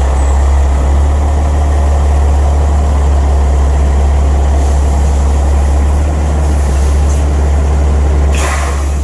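Semi truck's diesel engine running steadily at low speed with a deep hum as the loaded truck is pulled forward to the next hopper. A short hiss of air comes near the end.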